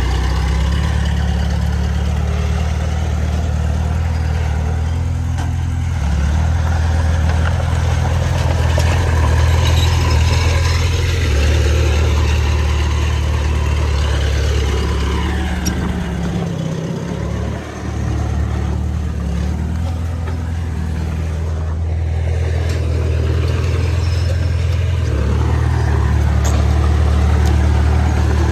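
Heavy diesel engine of earthmoving machinery running under changing load, its revs and level rising and falling every few seconds, with a short drop about two-thirds of the way through.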